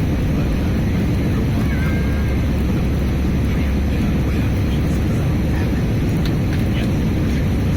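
Steady engine and airflow rumble of an Airbus A320-214 with its CFM56 engines running, heard from inside the cabin; the noise stays even throughout.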